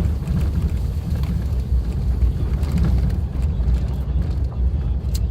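Suzuki Jimny driving along an unpaved forest road: a steady low rumble of engine and tyres, with a few light clicks scattered through it.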